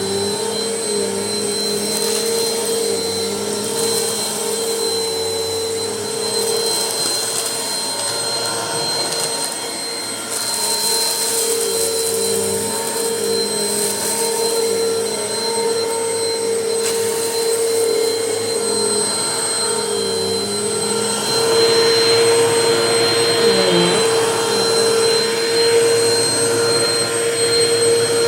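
Vacuum cleaner running with a steady whine, its pitch dipping briefly now and then. It gets a little louder about ten seconds in and again after about twenty-one seconds.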